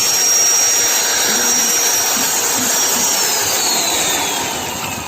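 Electric power tool's motor running at high speed with a steady whine, then switched off about three seconds in and winding down, its pitch falling.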